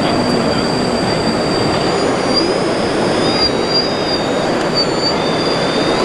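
High-pitched electric whines from 1/14-scale RC model trucks' motors and gearboxes, wavering up and down in pitch over a steady din.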